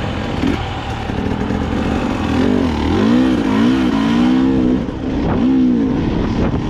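Dirt bike engine running under way, its pitch rising and falling repeatedly with the throttle over a steady background of engine and wind noise.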